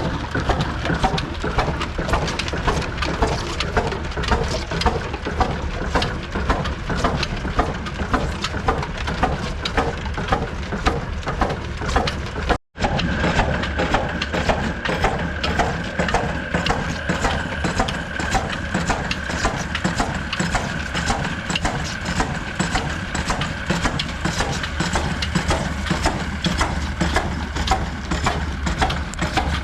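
Old stationary diesel engine running steadily with a quick, even beat, driving a flour mill. The sound cuts out for an instant about thirteen seconds in.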